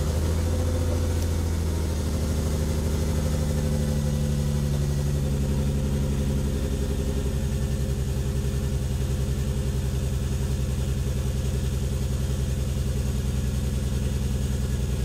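Lexus SC300's straight-six engine idling roughly just after its first start on a newly wired, untuned AEM V2 standalone ECU.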